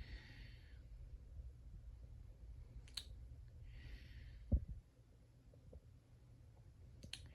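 Faint handling and breath sounds over a low hum: two short breaths, a couple of sharp clicks and one low thump.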